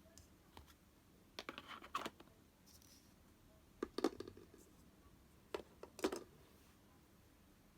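Light clicks and taps of small objects being handled and set down, in three short clusters about two seconds apart.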